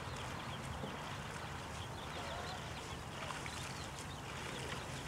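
Many short bird chirps, repeating over a steady background hiss and low rumble.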